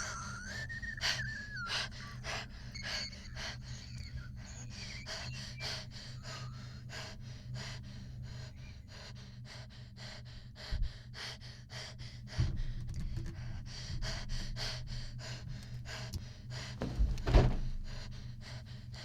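A person panting hard, quick breaths about three a second, over a steady low hum. A few dull thumps come in the second half, the loudest near the end.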